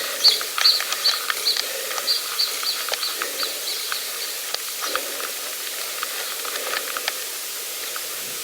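A bird calling in a quick series of short high notes, about three a second, stopping about four seconds in, over a steady hiss.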